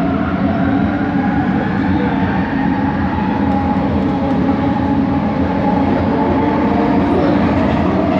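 Bombardier Innovia ART 200 train heard from on board: the steady rumble of the running train under the whine of its linear induction motor. Several motor tones slowly rise in pitch in the first few seconds and again near the end, as the train gathers speed.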